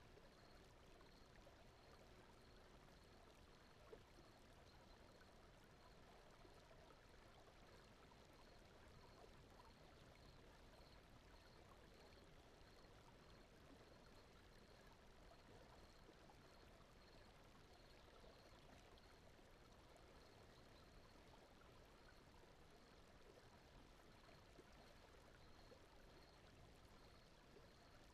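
Faint, steady ambience of gently running water, like a flowing stream, laid as a soft noise bed, with a faint high tone pulsing evenly throughout.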